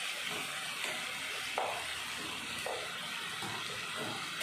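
Chopped onions and tomatoes sizzling in oil in a pan, a steady hiss, with a few soft scrapes of a wooden spatula stirring them.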